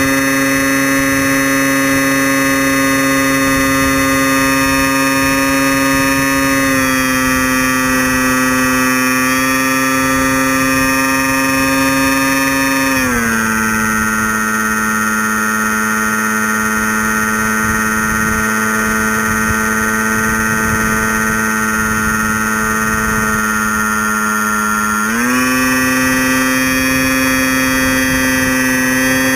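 Storm Chaser RC plane's electric motor and propeller buzzing steadily in flight, heard from the onboard camera. The pitch drops about halfway through as the motor slows, then climbs back toward the end.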